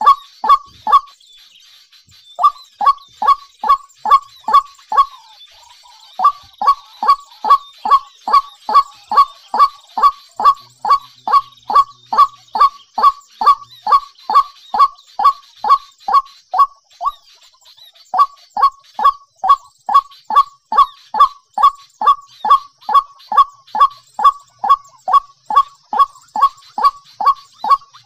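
A bird calling over and over, short downward-sliding honking notes at about two and a half a second, in long runs with brief pauses about a second in, around five seconds in and near seventeen seconds.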